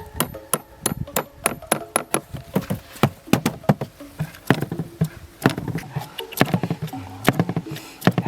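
A series of sharp knocks or taps, irregular, about two to four a second.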